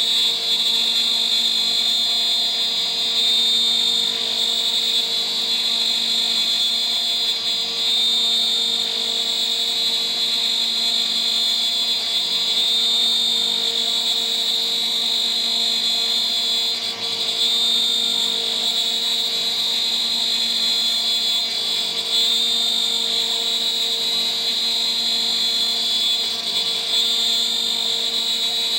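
CNC router spindle running at about 14,000 rpm, a 3 mm three-flute end mill cutting steadily, with a constant high whine.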